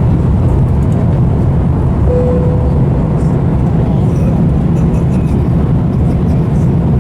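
Airliner cabin noise: a steady deep rumble from the engines and airframe, with a brief single tone about two seconds in.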